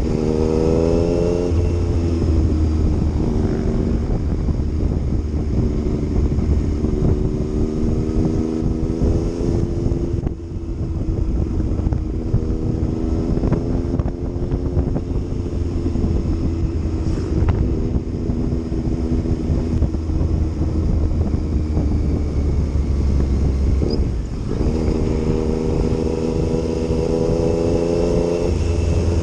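Yamaha MT-09's three-cylinder engine pulling on the road, with wind rumble on the microphone. Revs rise near the start, then hold steady. There is a short dip in engine pitch about ten seconds in and again about twenty-four seconds in, each followed by the revs climbing again.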